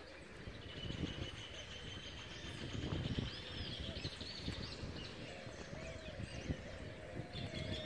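Birds chirping and calling with short, arching high calls over a low, uneven rumble.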